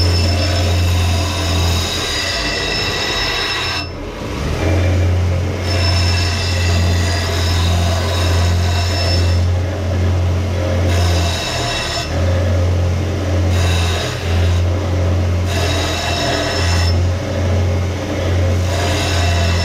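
A power grinding tool running against a steel axe head, reshaping the edge to work out a flat spot into a round profile. A steady low motor hum dips briefly a few times, and a high whine comes and goes as the steel is worked.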